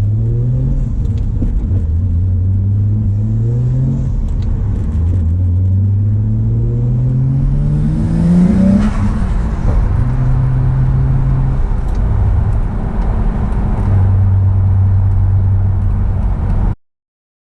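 Car engine and exhaust accelerating through the gears: the pitch climbs, drops at each shift and climbs again, rising highest about nine seconds in, then holds steady. The sound cuts off suddenly near the end.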